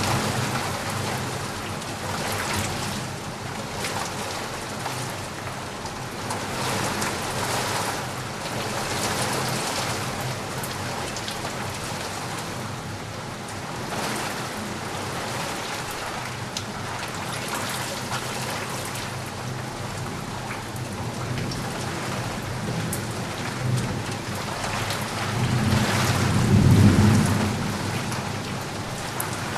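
Steady rain falling, with a roll of thunder rumbling up and fading near the end.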